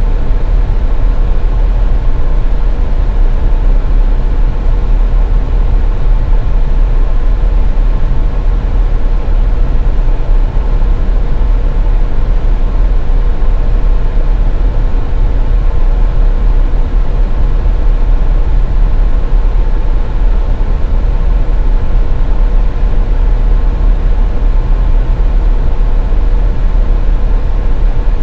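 Steady low rumble of a car driving at highway speed, with road and engine noise and a faint steady hum running underneath.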